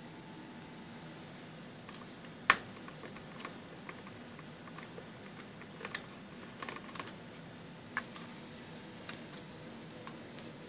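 Scattered light clicks of a small screwdriver and screws as the two screen-bezel screws are taken out of an ASUS X501A laptop, with one sharp, louder click about two and a half seconds in.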